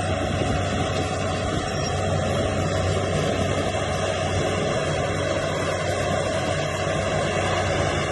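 Heavy diesel engine of earthmoving machinery running steadily: a constant low drone that holds the same level throughout.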